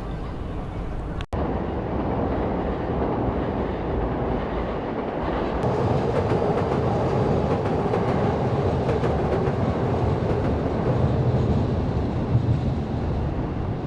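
Steady rumble and rattle of a moving vehicle, after a brief cut about a second in.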